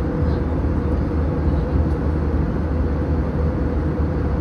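Airliner cabin noise in cruise: a steady, even rush of air and engine drone with a low hum and a faint steady mid-pitched tone.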